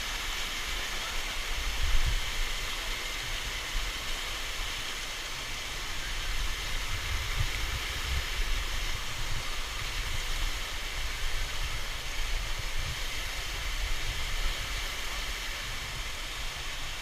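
Steady rushing of a waterfall's falling water, with irregular low rumbles underneath.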